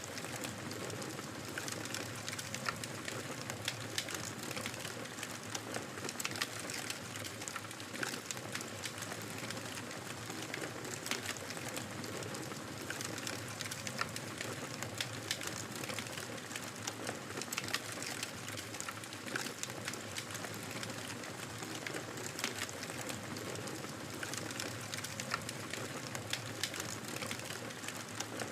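Fireplace fire crackling: a steady hiss with frequent sharp pops and snaps.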